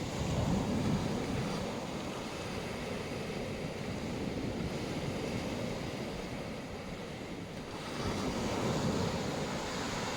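Black Sea surf: a steady hiss of waves washing onto the shore, with one wave swelling louder near the start and another about eight seconds in.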